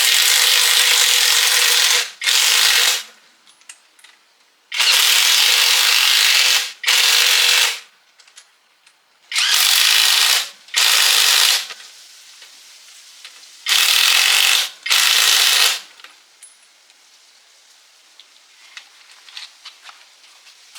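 A compressed-air tool used on the truck chassis gives four pairs of loud, hissing blasts, each a longer blast followed by a shorter one, starting and stopping sharply. After the last pair, near the end, there are only faint light clicks of handling.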